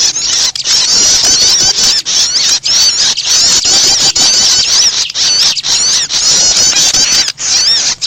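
Bird-trapping lure call of the 'kerbas' type: a dense, unbroken chatter of rapid, high-pitched chirps and squeaks, like many small birds calling at once, with short breaks every second or so.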